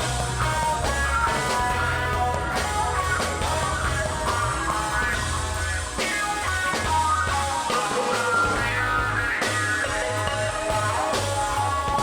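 Instrumental passage of a live rock-pop song, with guitar over a bass line and a steady beat.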